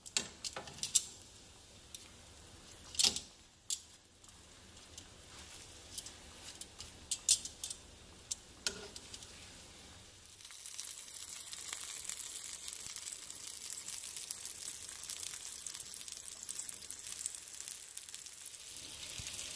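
Cheese-filled corn tortillas frying in oil in a pan. A few sharp clicks of metal tongs on the pan come first, then from about ten seconds in a steady sizzle of frying.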